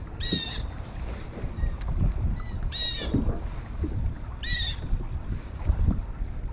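A bird calling loudly three times, short harsh calls about two seconds apart, over low wind rumble on the microphone and small knocks.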